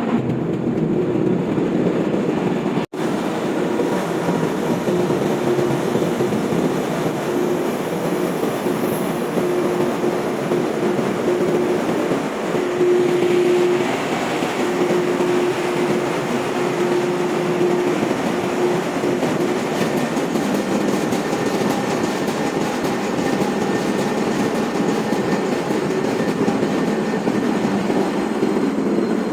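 Ship's engine room machinery running: a loud, steady mechanical drone with a tone that comes and goes, cut off for an instant about three seconds in.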